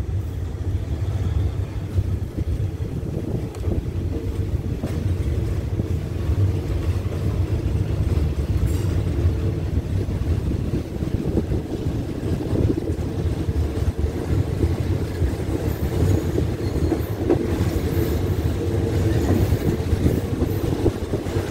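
Moving passenger train heard from inside a carriage with the window open: a steady rumble of the wheels on the rails.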